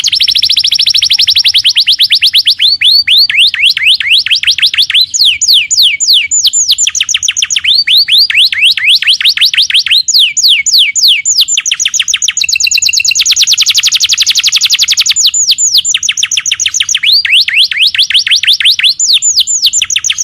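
Domestic canary singing an unbroken run of fast trills. Each trill is a rapid string of downward-sweeping notes, and the bird switches to a new trill pattern every second or two.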